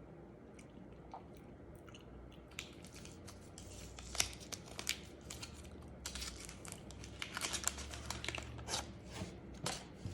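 Plastic wrapper of a sealed hot-sauce chocolate crinkling and tearing, many short crackles in clusters starting about two seconds in.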